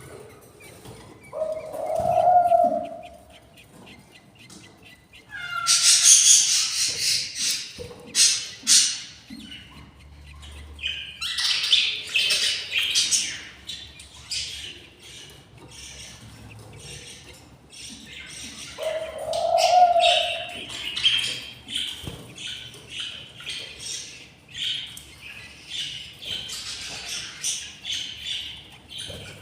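Budgies chirping and chattering in bursts, with two shorter, lower calls, one near the start and one about two-thirds of the way through.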